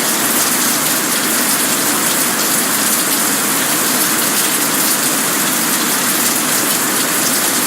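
Rain pouring down steadily, a dense, even hiss with no letup.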